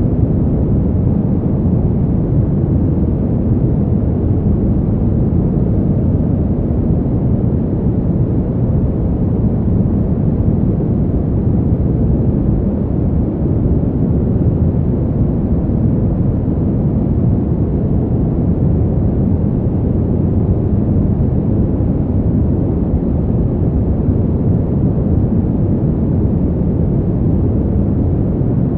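Steady, low cold-winter wind noise, an even deep hiss with no gusts, breaks or other sounds in it.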